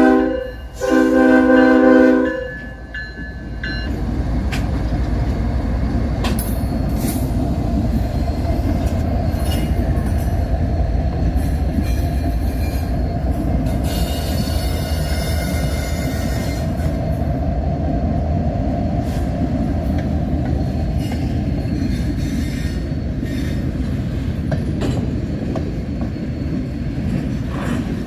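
Nathan K5HL air horn on a CN ES44DC diesel locomotive: one blast cuts off right at the start, and a second blast of about a second and a half follows. Then a freight train rolls past with a steady heavy rumble of wheels on rail, and a brief wheel squeal about halfway through.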